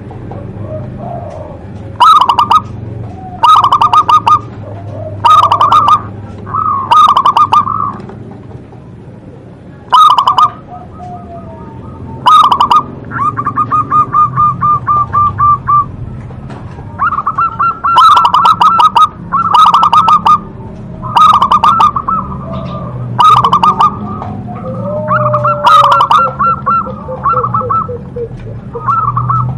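Zebra dove (perkutut) cooing: loud repeated short phrases of rapid rippling coo notes, one every second or two, with a longer even trilled run about halfway through.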